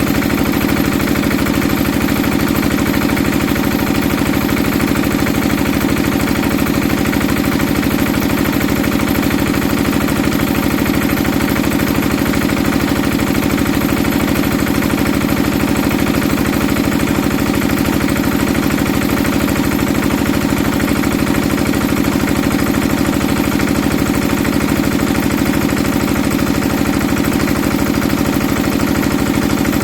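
Old hand-start Enfield stationary diesel engine running steadily, fast enough to shake the ground, on a governor setting the owner puts at about 1800 rpm.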